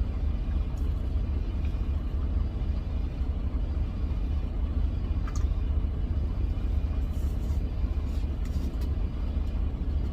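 Freightliner Cascadia semi truck heard from inside the cab: a steady low engine rumble with road or cab noise, unchanging throughout.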